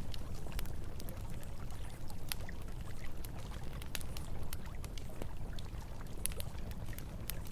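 Campfire crackling, with frequent short sharp pops at irregular intervals, over the steady rush of flowing river water.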